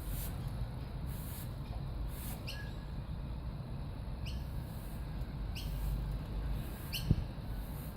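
Short, squeaky bird chirps repeated every second or two, each gliding downward, over a steady low rumble.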